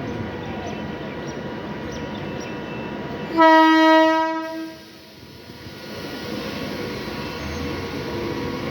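Train horn sounding one loud blast of about a second, roughly three and a half seconds in, over the steady rumble of a train.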